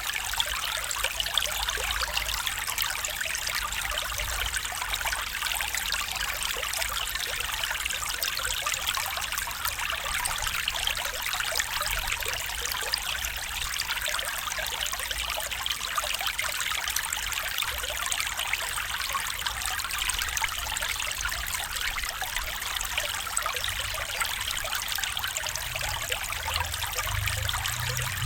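Stream water trickling and splashing over stones in a steady, even rush, with fine bubbling detail and no change.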